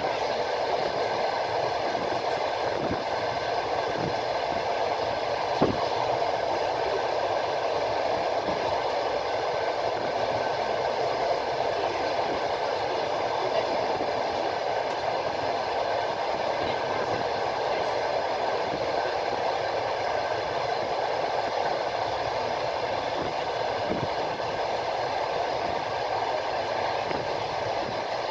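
Train wheels rolling on the rails at steady speed: an even rumble with a few scattered knocks from the wheels.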